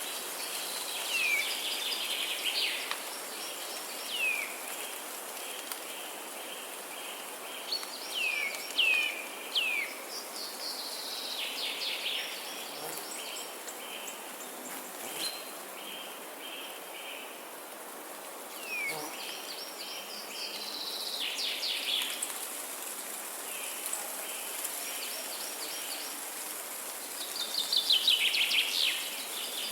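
Songbirds singing: rattling trills and quick down-slurred whistled notes every few seconds, the loudest trill near the end, over a steady background hiss.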